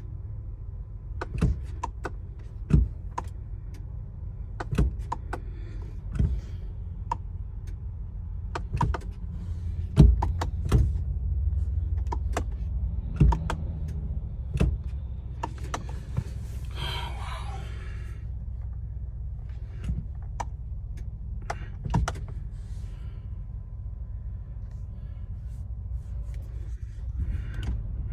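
Sharp clicks every second or two as the starter of a 2022 Sprinter van is tried again and again. The engine does not crank or catch, a no-start. A steady low hum runs underneath, growing louder about a third of the way in.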